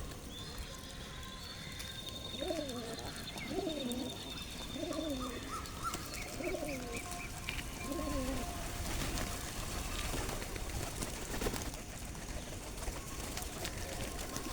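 Pigeon cooing: a run of about five falling coos, a little over a second apart, through the first half, with a smaller bird's high whistle and a short trill alongside.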